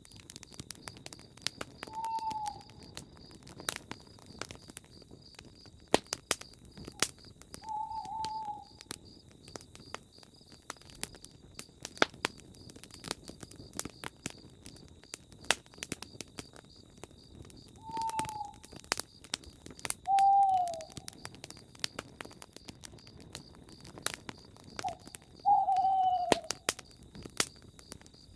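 Owl hooting five times, short single hoots that fall slightly in pitch, the last two loudest, over a campfire crackling and popping throughout. A steady pulsing insect chirp runs underneath.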